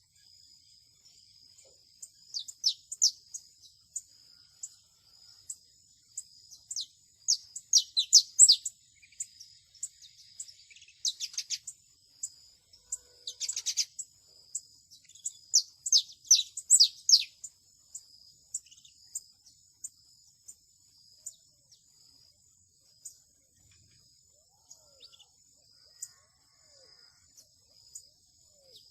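Canary calling in quick bursts of high, falling chirps, busiest in the first half and sparse later, over a steady high-pitched insect trill.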